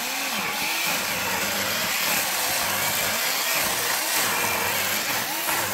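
Chainsaw running and cutting logs, its engine pitch wavering up and down under load.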